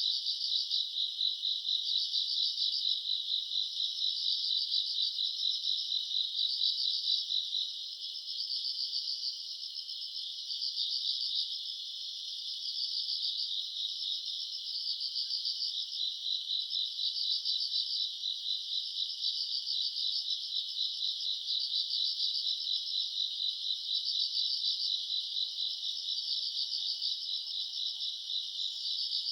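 Crickets and other grass insects chirping in a dense night chorus: rapid, overlapping pulsed trills that swell and ease.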